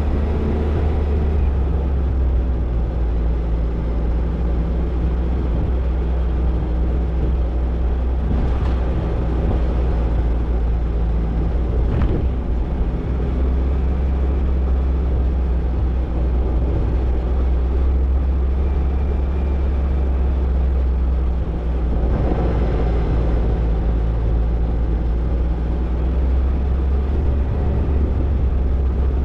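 Toyota Tercel 4WD wagon driving on a dirt trail: a steady low engine drone with rumble. There are a couple of faint knocks about 9 and 12 seconds in.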